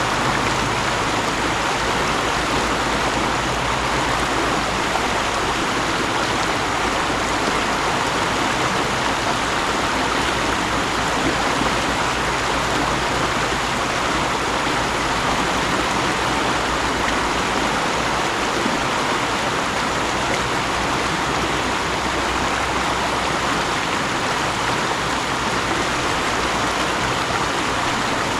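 Mountain stream rushing steadily over rocks, a continuous even flow of water.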